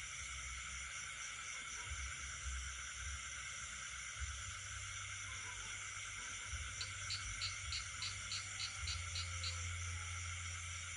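Night chorus of insects and frogs: several steady, high-pitched insect trills overlap throughout. A little past the middle, a run of about a dozen short chirps repeats at about four a second, with a low, uneven rumble underneath.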